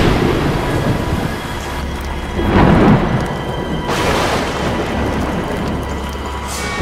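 Steady heavy rain with repeated thunder: a crack right at the start, a heavy rumble about two and a half seconds in, and sharper cracks at about four seconds and near the end.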